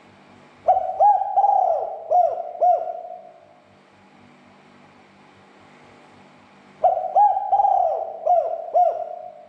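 Spotted dove cooing: two call phrases about six seconds apart, each a run of about five low coos, the first notes drawn out and the last ones short and clipped. A faint steady hum lies underneath.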